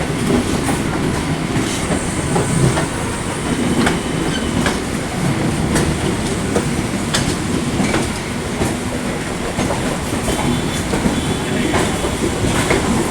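EMU suburban local train running, its wheels clattering over rail joints: irregular clicks over a steady rumble.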